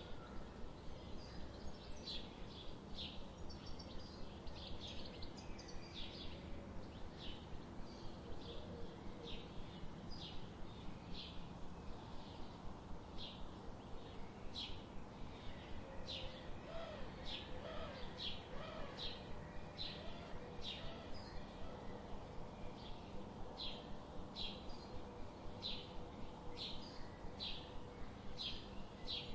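Birds singing: short, high chirps repeated steadily, over a constant low background noise, with a few softer, lower calls about halfway through.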